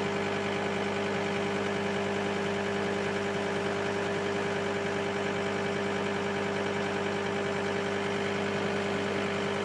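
Bucket loader's engine idling steadily, an even low pulsing under a constant hum.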